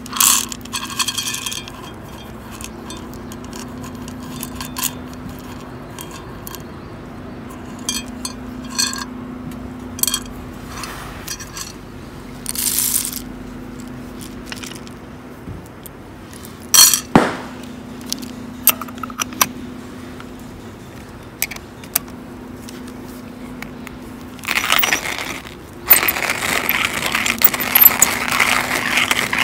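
Camping gear being handled: scattered light metallic clinks, taps and scrapes over a faint steady hum, turning to a dense, continuous rattling in the last few seconds.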